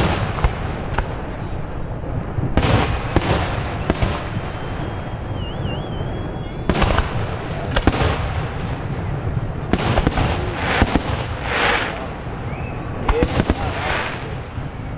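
Aerial fireworks bursting one after another: sharp bangs at irregular intervals, several followed by crackling, with a brief wavering whistle about five seconds in.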